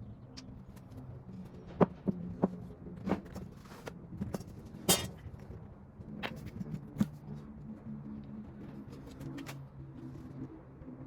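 Scattered sharp clicks and light knocks of hydraulic valve lifters being pulled from a Ford 302 Windsor V8 block and handled, the loudest a short rattle about five seconds in, over a steady low hum.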